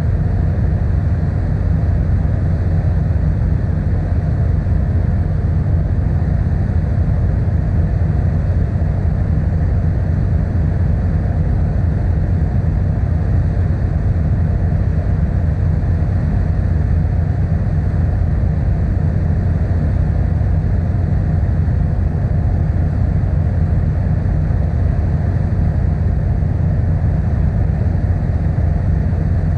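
Steady low drone of the ferry Kuniga's diesel engines and hull while under way, a deep rumble that does not change.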